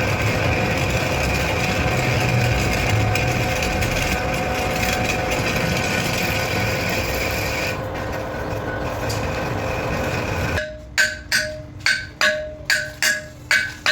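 Steady workshop machinery running, a dense noise with a few held tones, typical of a lathe turning steel. About ten seconds in it cuts off suddenly and gives way to a rhythmic percussion beat, about two and a half ringing strikes a second.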